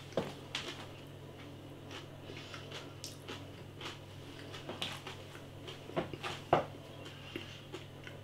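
A man quietly chewing crispy roast potatoes, with a few soft crunches and clicks scattered through and two sharper ones about six seconds in.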